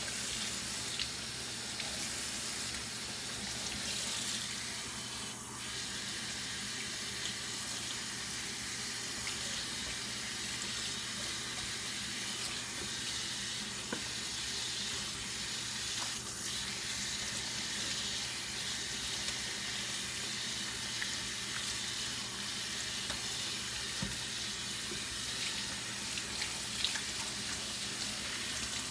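Water running steadily from a sink tap while shampoo is rinsed out of hair held under the stream.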